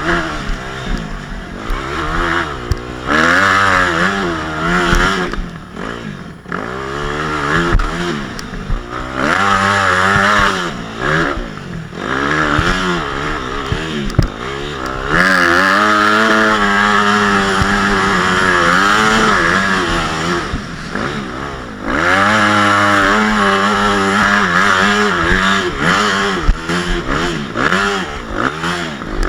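Motocross bike engine revving up and down over and over as the rider works the throttle and gears, with two longer stretches held at high revs in the second half.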